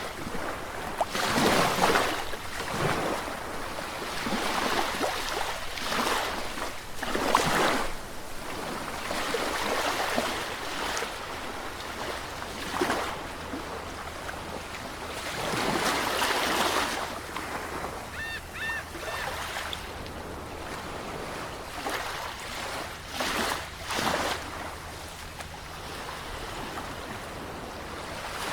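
Sea waves surging and breaking, the wash swelling and falling in irregular pulses every few seconds. A few short, high chirps sound about two-thirds of the way in.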